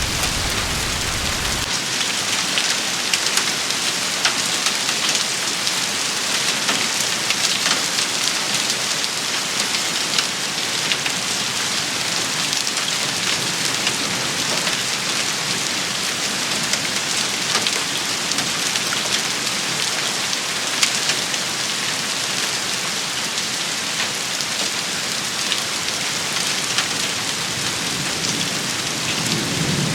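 Steady heavy rain falling on hard surfaces: a dense hiss with many sharp drop impacts. A low rumble underneath stops abruptly about two seconds in.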